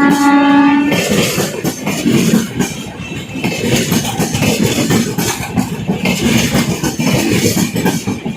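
A WAP-7 electric locomotive's horn sounds once, a steady tone that ends about a second in. After it comes the continuous clatter of a passenger train's wheels running over the rail joints as the coaches pass.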